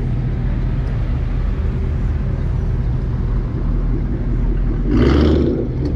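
Car engine running steadily at a low pitch, with a short, louder burst of noise about five seconds in.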